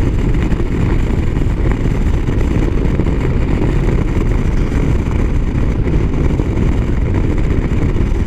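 A motorcycle cruising on the highway: a steady rush of wind and road noise with the engine running underneath, even and unbroken throughout.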